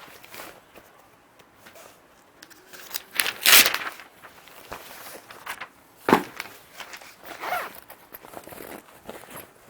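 Irregular rustling and scraping handling noises, with a louder rustle about three and a half seconds in and further ones about six and seven and a half seconds in.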